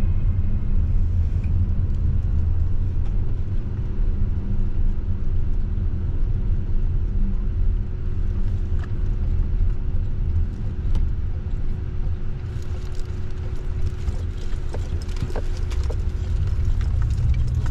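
Car cabin noise while driving: a steady low rumble of engine and road with a faint steady hum, and light clicks and rattles in the last few seconds.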